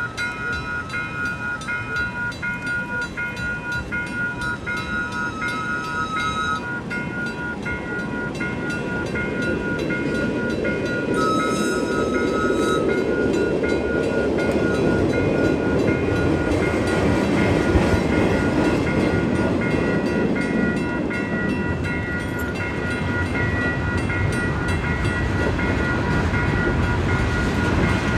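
Railroad crossing bell ringing steadily, with a short horn blast about eleven seconds in. A freight train's rumble then builds as the train rolls up to and through the crossing.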